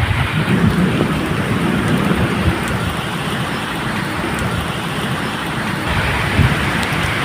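Steady medium rain falling as a continuous hiss, with a low, uneven rumble of distant thunder beneath it that swells near the start and again near the end.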